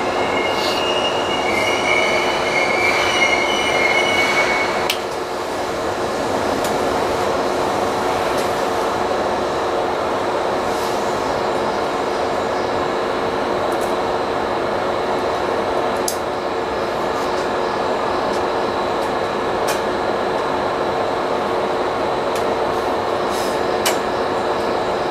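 Seibu 3000 series electric train standing still, heard from inside the driver's cab: a steady hum from its onboard equipment. A high, wavering squeal runs over the first five seconds and cuts off suddenly, and a few faint clicks come later.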